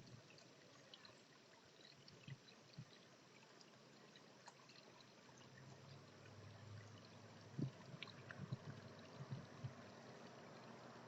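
Faint trickling water with scattered small ticks and a few soft low knocks.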